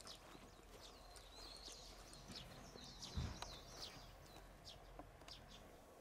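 Faint outdoor ambience of small birds chirping, with a run of quick twittering notes in the first half. A single low thump a little past three seconds in is the loudest sound.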